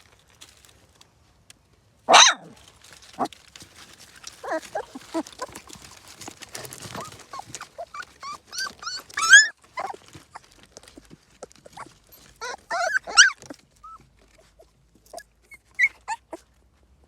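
Dogs whining and yelping in short high-pitched bursts, with the loudest yelps about two seconds in, around nine seconds in and around thirteen seconds in.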